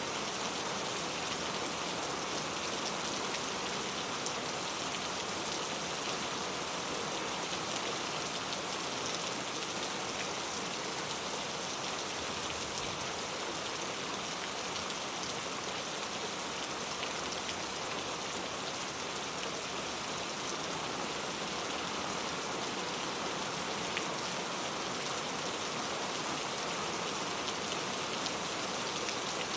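Steady rain falling, an even hiss of drops on surfaces with scattered individual drop ticks.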